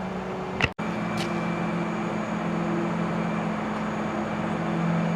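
A steady low mechanical hum, like a motor or engine running, over a background hiss, broken by a short click and a moment's dropout just under a second in.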